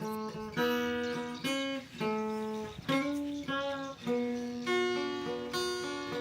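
Instrumental intro on guitar: chords struck about once a second, each ringing and fading before the next.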